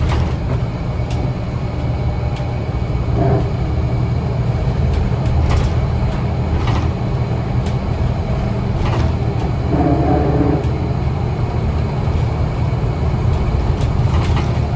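Scania L94UA city bus running, a steady low rumble with scattered rattles and clicks. A short tone sounds about ten seconds in.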